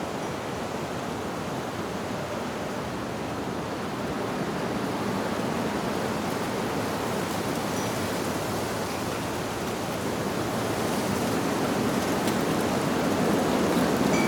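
Wind rushing through leaves, a steady noise that slowly swells, with a faint wind-chime tinkle about eight seconds in.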